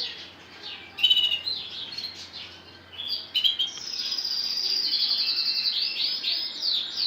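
Lancashire canary singing: a few short high chirps and warbles, then from about four seconds in a long, rapid rolling trill.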